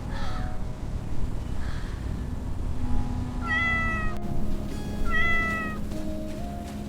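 Cat meowing twice, two short calls about a second and a half apart, over soft background music.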